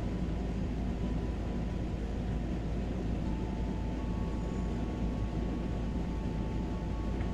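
Steady low rumble of outdoor ambience with no distinct events. A faint steady high tone joins about three seconds in.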